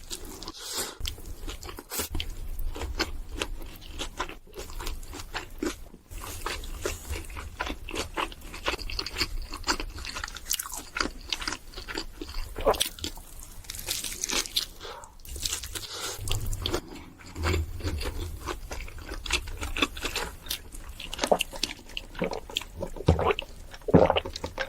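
Close-miked eating sounds: a person biting, crunching and chewing food in dense, irregular crackles with soft low thumps.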